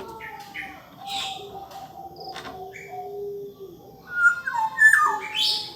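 Black-naped oriole singing: short chirps and fluting whistles, with the loudest run of whistled notes stepping down in pitch near the end.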